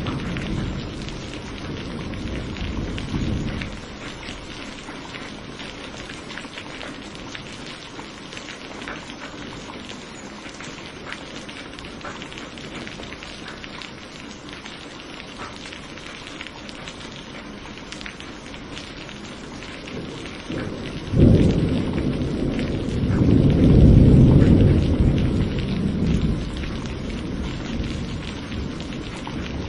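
Thunderstorm: steady heavy rain falling, with a low rumble of thunder dying away in the first few seconds. About twenty seconds in, a sudden sharp thunderclap breaks and rolls into a loud rumble that fades over the next several seconds.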